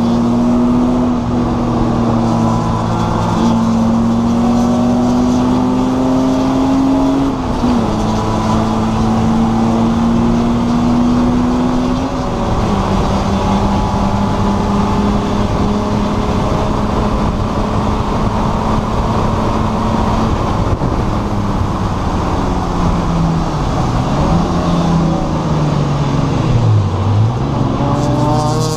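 Race car engine heard from inside the stripped cabin under hard acceleration, its pitch climbing slowly and dropping sharply at two upshifts about 7 and 12 seconds in. Near the end the revs fall sharply twice and climb back. Loud road and wind noise runs under the engine throughout.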